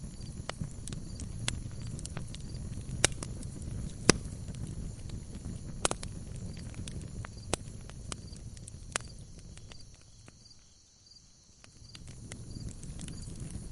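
Log fire crackling in a fireplace: irregular sharp pops and snaps over a low rumble of burning wood, the two biggest pops about three and four seconds in. The fire goes briefly quieter shortly before the end.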